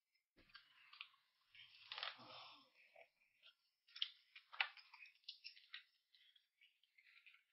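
Faint eating sounds: irregular crunching and chewing of food, with many small sharp clicks.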